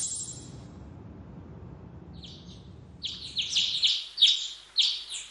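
Small birds chirping for a morning scene: short, high chirps repeated several times a second, starting about three seconds in. At the very start the tail of a high shooting-star twinkle effect fades out.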